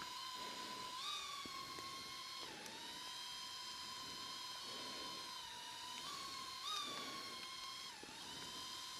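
Small quadcopter drone, a DJI Neo 2, hovering: its propellers give a steady high whine whose pitch swings up and down briefly a few times as the motors adjust.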